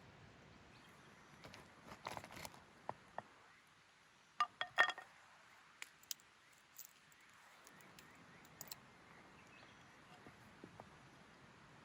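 Scattered small clicks and crunches over a faint steady hiss, with a short cluster of sharper knocks about four and a half seconds in.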